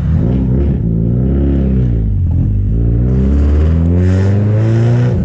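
Subaru WRX STI's turbocharged EJ flat-four running through a Tomei exhaust under light acceleration, heard loud through the open window: the pitch rises, dips about two seconds in, then climbs again. The exhaust note is nasty and raspy, the result of pairing the Tomei exhaust with a big turbo.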